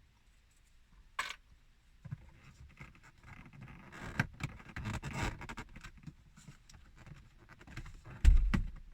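Plastic dash trim being worked loose by hand: scraping and rustling of plastic with many small clicks from its clips, and a loud thump near the end.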